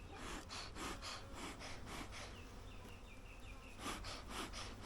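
Upset, defensive honeybees buzzing around an open hive, with short rustling noises close to the microphone, the loudest a little before the end.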